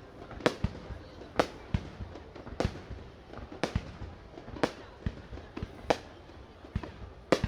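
Aerial fireworks shells bursting in a steady run of sharp bangs, about one a second, with smaller pops in between.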